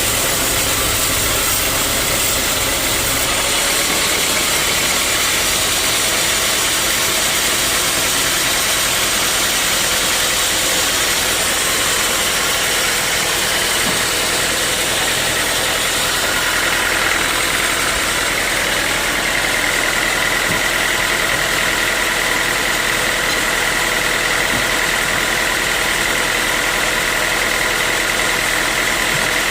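Sawmill saw running steadily through a mahogany log. A high, steady whine comes in a little past halfway and holds to the end.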